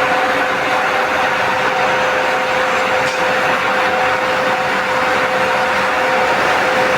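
Electric power tool running steadily under load: a constant motor whine over a dense grinding noise, typical of cutting into a metal frame.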